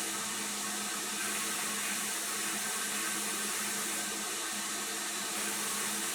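Steady machine hiss, like rushing air, with a faint constant hum underneath.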